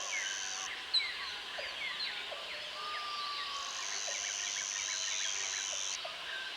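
Outdoor chorus of many birds chirping in short falling notes, with a high, steady insect buzz that stops under a second in, comes back around three and a half seconds and cuts off near the end. A single sharp click sounds about a second in.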